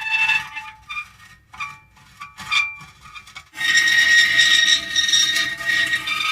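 Metal creaking: pitched squealing tones that break into a few short, separate squeaks, then settle into one long, steady squeal from about three and a half seconds in.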